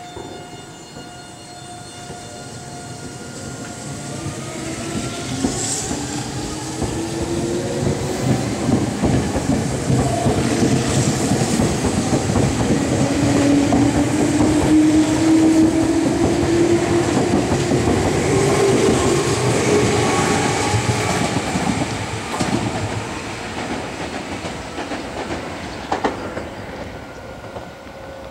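Meitetsu limited express, a Panorama Super coupled to 1800-series cars, running along the platform. A motor whine rises steadily in pitch as the train gathers speed, over wheels clacking on the rail joints. The sound grows loud through the middle and fades as the train moves away.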